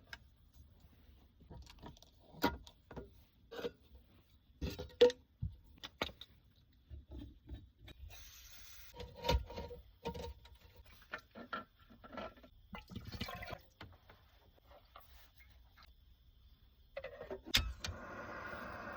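Small objects being handled: a scattered run of clicks, knocks and rustles, then a steady rushing sound in the last two seconds.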